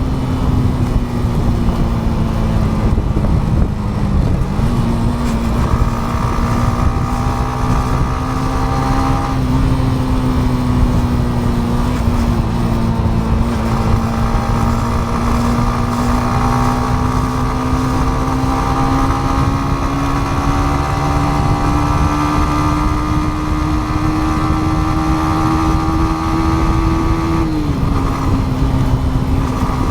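Yamaha MT-15's single-cylinder engine running at steady cruising revs under way, its pitch drifting slowly up and down. The pitch dips briefly about four seconds in and drops sharply near the end, as the throttle or gear changes. A constant low rush of wind and road noise runs underneath.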